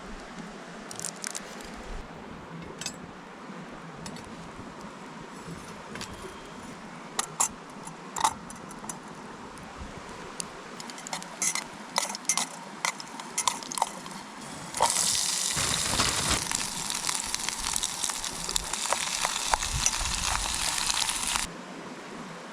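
Scattered clinks and clicks of camp cookware, then liquid being poured in a steady stream for about six seconds before stopping suddenly.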